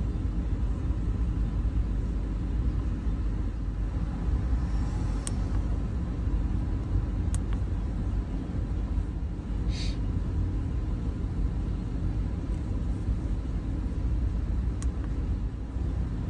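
Steady low rumble of a 2009 Chevy Tahoe Hybrid's 6.0-litre V8 running, heard inside the cabin, with a few faint clicks and a short hiss about ten seconds in.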